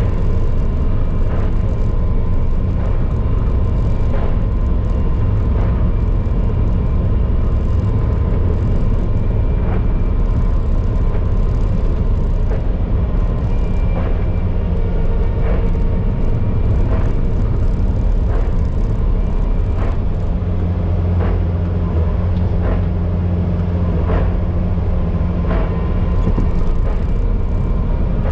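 Bobcat T595 compact track loader's diesel engine running steadily, with scattered clicks and knocks over the drone; the engine note shifts and grows stronger about twenty seconds in.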